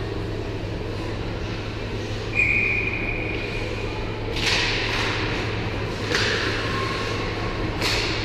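Referee's whistle blown once in an ice rink, a steady shrill tone held about two seconds, over a steady low hum. Three short, sharp scraping hits follow in the second half.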